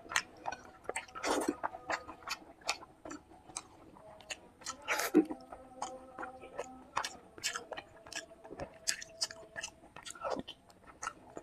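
Close-miked chewing of a meal of fish curry, fried fish, rice and salad: many short, irregular mouth clicks and smacks, a few louder than the rest.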